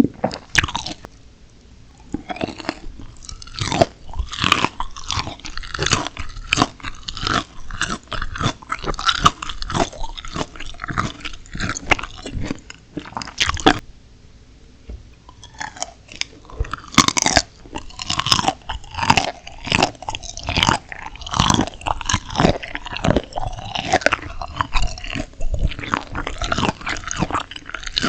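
Close-miked, rapid crunchy biting and chewing of steamed shrimp with raw chilli pepper, with two short lulls, about a second in and about halfway.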